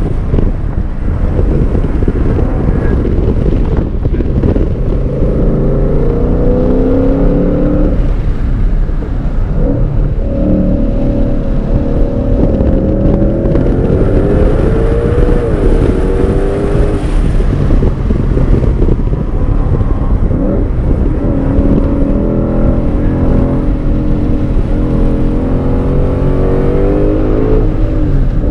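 2022 Shelby GT500's supercharged 5.2-litre Predator V8, heard from inside the cabin on track, pulling under acceleration with its pitch rising three times and falling back as the throttle comes off between pulls. A steady rumble of road and tyre noise runs underneath.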